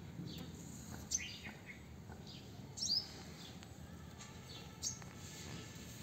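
Birds chirping: short, high calls that sweep downward, three bouts about two seconds apart, over faint low background noise.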